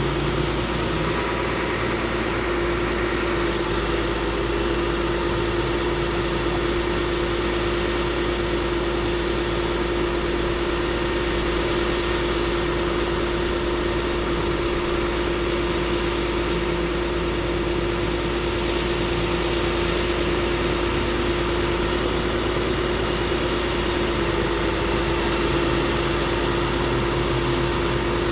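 Caterpillar C7 diesel engine of a Ford F750 truck idling steadily, with a constant steady hum held over the low engine rumble.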